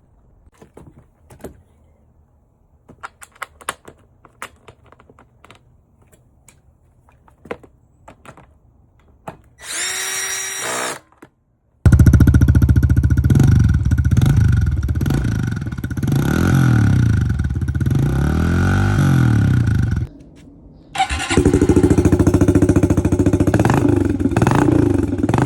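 Honda CRF110 dirt bike's single-cylinder four-stroke engine running loud through its stock exhaust after a modification meant to make it louder, revving up and down. It cuts out briefly and starts again near the end. Before it starts there are scattered faint clicks and knocks, then a brief whine.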